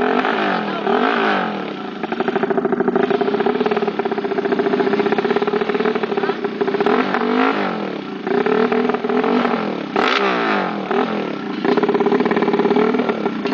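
Suzuki Satria FU single-cylinder four-stroke engine, built up to 200cc, running and being revved repeatedly. The revs rise and fall back about half a dozen times.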